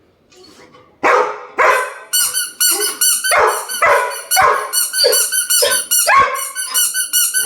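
Labrador barking in loud, repeated barks from about a second in, demanding a toy held back from it, while a squeaky toy squeaks rapidly over the barks.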